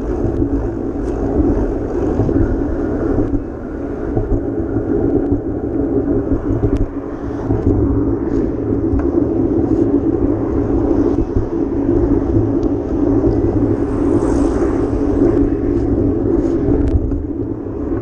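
Steady road and traffic rumble with a constant hum, recorded on the move during a ride through city streets; a few faint ticks come through on top.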